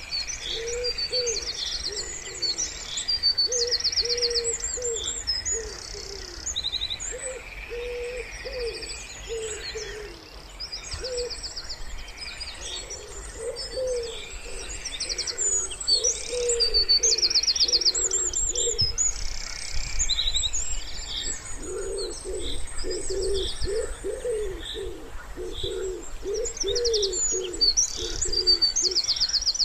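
Wood pigeon cooing in repeated low phrases, busiest in the second half, over the continuous high chirps and rapid trills of small songbirds.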